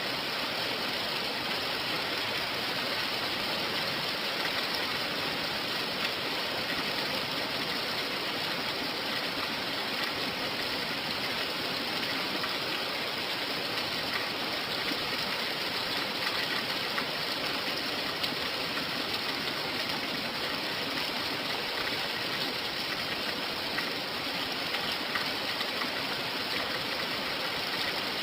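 Steady rain falling: an even, unbroken hiss with faint scattered pattering.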